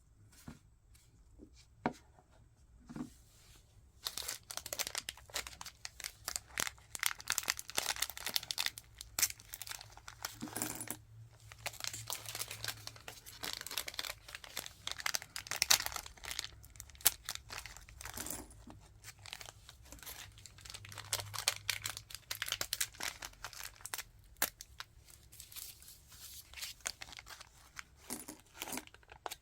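Packaging being handled and opened by hand, crinkling and tearing. A few single clicks, then from about four seconds in a dense, nearly continuous run of crisp crackles and rustles.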